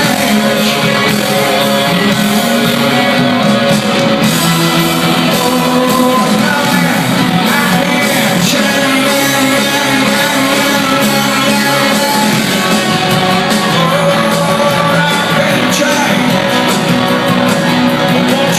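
Loud rock music with electric guitar, playing on without a break.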